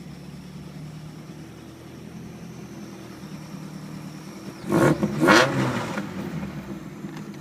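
Supercharged VW truck engine idling steadily, then blipped twice quickly about five seconds in, each rev rising sharply and dropping back to idle.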